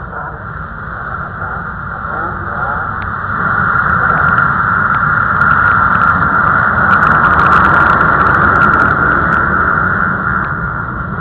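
Motocross bikes racing, their engines revving up and down, growing louder over the first few seconds as they come close and easing slightly near the end.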